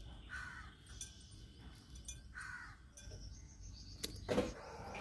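A bird calling twice, about two seconds apart, and a sharp knock near the end.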